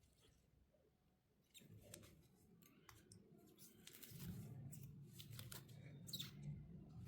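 Near silence: faint scattered clicks and light handling noises over a low hum, growing a little louder in the second half.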